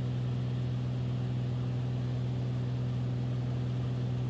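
Beechcraft Bonanza's piston engine and propeller running steadily, a low, even drone heard in the cockpit.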